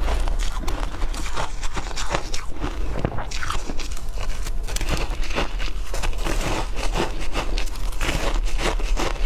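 Ice being bitten and chewed, a continuous run of crisp crunches.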